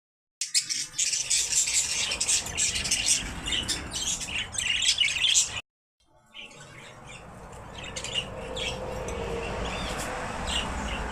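Many small birds chirping and calling rapidly, with occasional squawks; the sound cuts out briefly a little past halfway and resumes with sparser chirps over a steady hiss.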